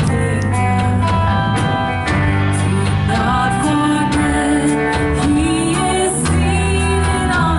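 Live church worship band playing a song: singing over guitar and a full band.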